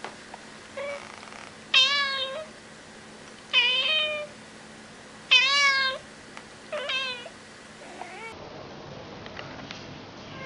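A kitten meowing repeatedly, five high-pitched meows a second or so apart, each dropping in pitch at the end. The loudest comes about halfway through.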